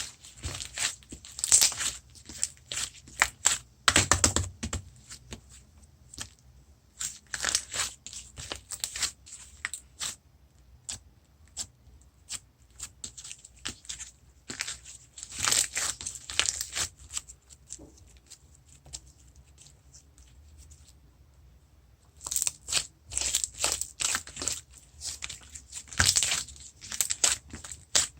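Glossy slime being squished and pressed by hand, making bursts of sharp wet clicks and pops, with short pauses between the bursts.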